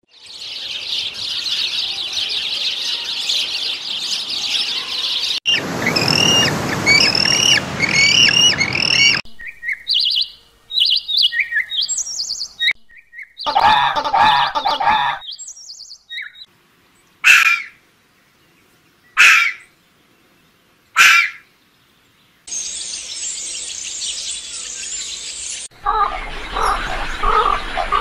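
A run of short bird-call clips spliced one after another with abrupt cuts: dense high chirping, then a bird repeating a short chirp, scattered chirps, three short separate calls about two seconds apart, and more high chirping near the end.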